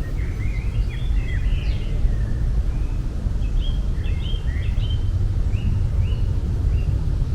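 Small birds chirping and twittering in short repeated notes over a steady low rumble.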